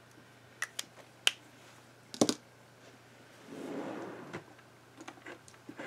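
Art supplies being handled on a desk: several sharp clicks and taps of a pen and pencils, the loudest a double knock a little over two seconds in, with a brief soft rubbing scrape of drawing on paper about three and a half seconds in.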